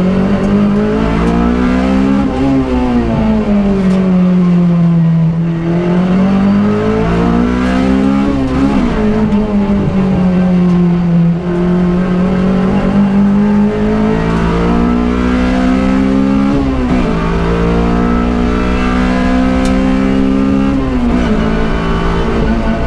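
Honda Civic FD2's four-cylinder engine under hard acceleration, heard from inside the cabin: the pitch climbs through the revs and drops sharply at each upshift, three times, with a gentler rise and fall in the first few seconds.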